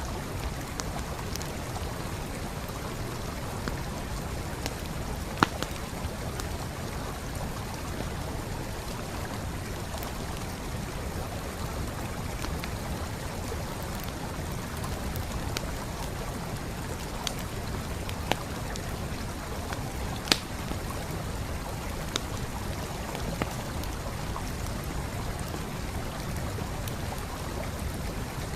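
Steady rush of a flowing stream with a wood campfire crackling over it: scattered sharp pops at irregular intervals, the loudest about five seconds in and another about twenty seconds in.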